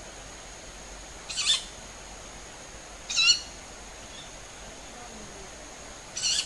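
Unidentified bird giving three short, high calls, about a second, three seconds and six seconds in. Each lasts about a third of a second and is a stack of tones that bend down. A steady high tone runs underneath.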